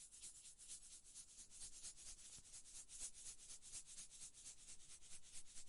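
Quiet hand sanding: quick back-and-forth rubbing strokes of abrasive, about seven a second.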